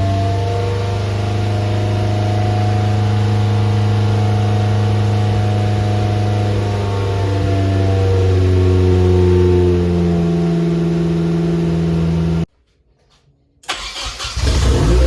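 Turbocharged KA24DE four-cylinder engine of a Nissan 240SX running at a steady speed. Near the end it cuts out suddenly for about a second, then comes back with a short noisy burst before settling into its steady note again.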